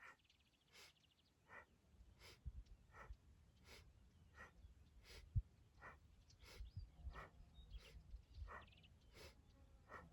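Faint rhythmic breathing, one stroke of breath about every 0.7 seconds, alternating inhale and exhale in time with a spinal flex. Soft low thuds of body movement now and then.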